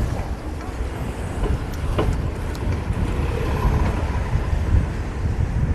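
Steady rumbling street-traffic and road noise heard from a fixed-gear bicycle riding through city streets, with a short sharp click about two seconds in.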